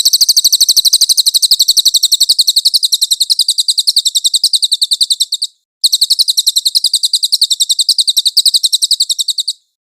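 A songbird's masteran (tutor song) recording: a rapid, high-pitched trill of evenly repeated notes, about ten a second, in two long runs broken by a short pause about five and a half seconds in, starting and stopping abruptly.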